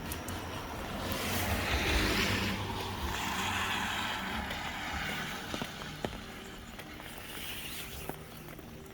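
Tyres hissing on a wet road as a vehicle passes, swelling for the first few seconds and then slowly fading, over the steady patter of light rain.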